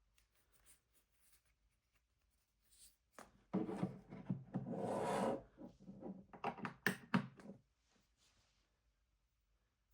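Hands handling objects on a hard surface: a few seconds of rubbing and scraping with several sharp clicks and knocks, starting about three and a half seconds in. No steady fan hum is heard under it.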